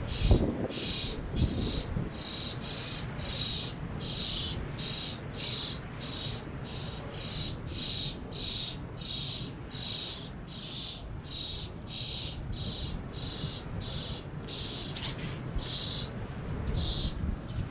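An insect chirping in a steady rhythm of short high pulses, about two a second. Underneath is low wind rumble on the microphone, with a strong gust near the start.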